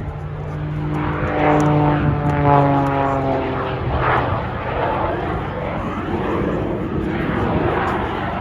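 Jet-assisted Pitts Special aerobatic biplane in display flight: its Lycoming piston engine and propeller run over the rush of its two small bolted-on jet engines. The engine note slides down in pitch a second or so in, then settles back into a steady rush.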